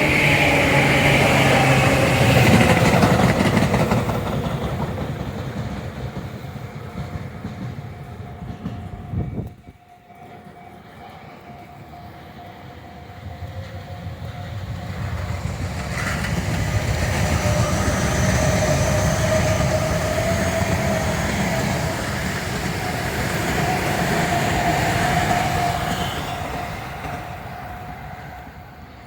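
Tobu Tojo Line electric trains passing at trackside, with wheels clattering on the rails and a motor whine. One train fades away over the first ten seconds; after a sudden break, another builds up, runs loud for about ten seconds with a steady whine, and fades toward the end.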